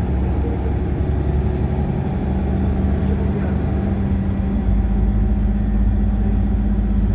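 Bus engine and road noise heard from inside the passenger cabin: a steady low drone with a constant hum, the low rumble growing a little stronger about halfway through.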